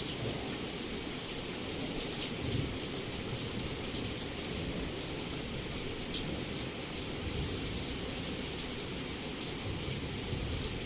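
Heavy rain pouring steadily against a window, with scattered drop ticks over a constant hiss and a low rumble underneath.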